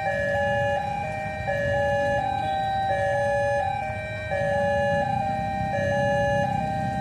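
An electronic tone stepping back and forth between two notes in a tune-like pattern, over a steady low rumble.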